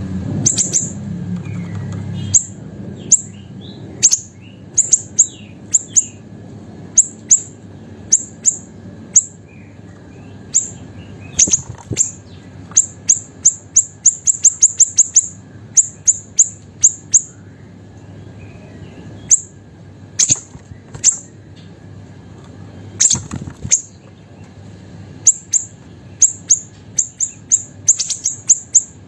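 Small siri-siri songbird chirping: short, sharp, very high notes, some single and some in quick runs, with gaps between them. A low hum underneath fades out about two seconds in.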